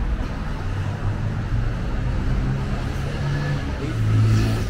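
Street traffic: a motor vehicle's engine running close by over the general road noise, growing louder about four seconds in.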